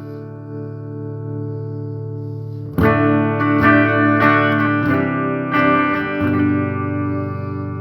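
Electric guitar played through a Hughes & Kettner Black Spirit 200 and an Orange Super Crush 100 amplifier run together. A chord rings out, then about three seconds in a new chord is struck, followed by about six more notes or chords picked at an even pace and left to ring.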